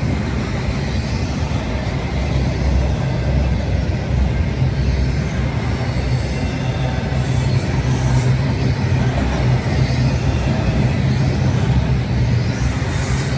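Freight train rolling past, a steady low rumble.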